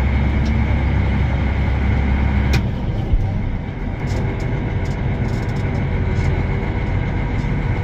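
Versatile 2375 tractor's diesel engine running steadily. Its deep drone drops noticeably about two and a half seconds in, with a single knock just after.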